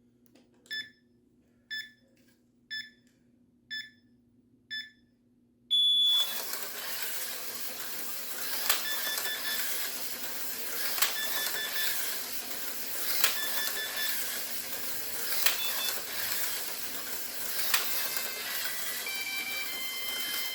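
Electronic slot car lap timer counting down with five short beeps a second apart and a longer, higher start tone. Then a slot car runs the road course with a steady whirring hiss, and the timer beeps about every two seconds as each lap is completed, with a short run of stepped tones near the end.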